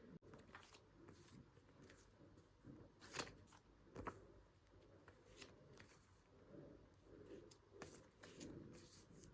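Faint desk-work sounds of paper being handled: scattered short rustles, scrapes and light taps, the loudest about three and four seconds in.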